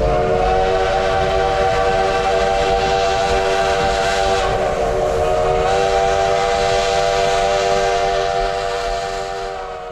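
The 1880 Train's steam locomotive whistle blowing one long blast, a chord of several steady notes at once over a hiss of steam. The pitch wavers briefly about halfway through, and the sound fades away near the end.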